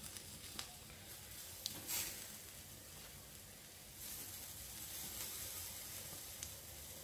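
Rice and chunks of meat frying in oil in a stainless steel pot: a faint, steady sizzle with a few light clicks, growing louder about four seconds in.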